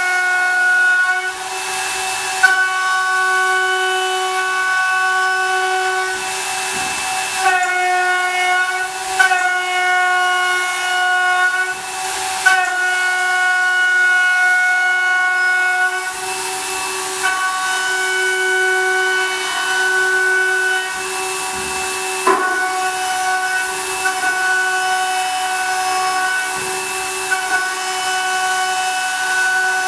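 CNC milling machine cutting aluminium: the spindle and cutter give a steady high whine with several tones stacked together, over a hiss of chip noise. The whine dips or changes briefly every few seconds as the cut changes.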